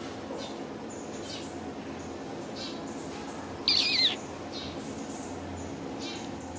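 Small birds chirping, with short high calls about once a second and one loud, brief warbling call with a wavering pitch about four seconds in, over a steady low background hum.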